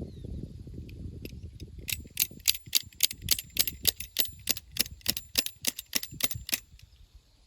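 A rapid, even series of about twenty sharp clicks or taps, about four a second, starting about two seconds in and stopping shortly before the end, after a stretch of low rustling.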